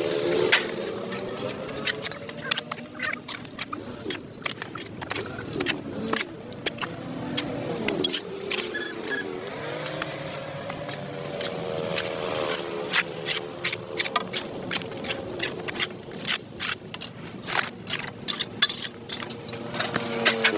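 A metal tool scraping and clicking against concrete in many quick, irregular strokes, as when dirt is scraped off a sidewalk. Under it an engine runs steadily, its pitch dipping and rising about halfway through.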